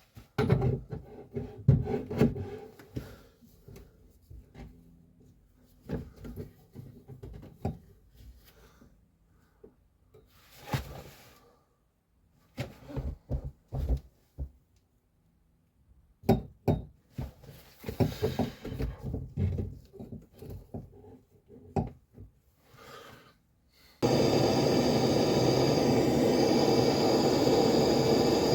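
Scattered knocks, taps and rubbing of tools and fittings being handled during boiler installation work. About 24 seconds in, a steady machine whir starts abruptly and runs on.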